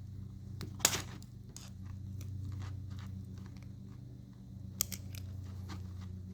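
A screwdriver working at a mini bike's roller chain link: two sharp metal clicks, the louder one about a second in and another near five seconds in, with small handling ticks over a steady low hum.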